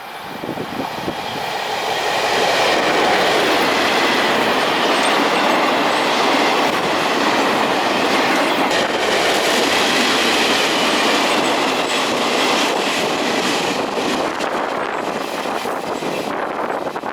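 Freight train hauled by a diesel-electric locomotive passing close by: a loud, steady rush of wheels on rail that swells over the first two seconds and holds, with faint high squealing tones from the wheels and a few clicks near the end.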